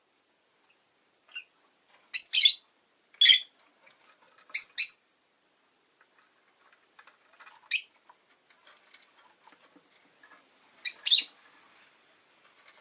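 Rosy-faced lovebird giving short, shrill chirps, about six calls, some doubled, a second or more apart at irregular intervals.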